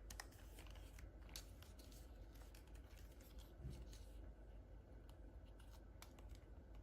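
Faint handling of toys and their packaging: scattered light clicks and rustles over the first few seconds, then near silence over a low hum.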